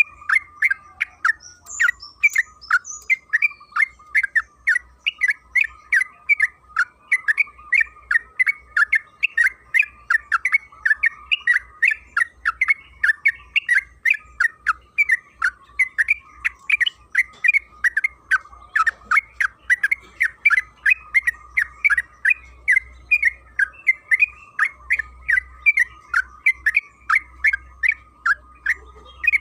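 Yellow-vented bulbul (trucukan) singing a long, unbroken run of short chattering notes, about three a second.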